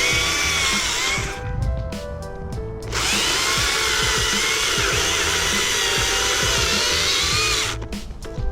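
Battery-powered Stihl MSA 161 T top-handle chainsaw cutting wood, its electric motor whine wavering and dipping under load. It stops about a second and a half in, cuts again from about three seconds, and stops near the end, with background music underneath.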